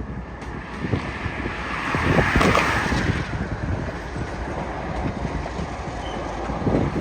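A train rolling past on yard track, its wheels knocking irregularly over rail joints over a steady rushing noise, loudest about two to three seconds in.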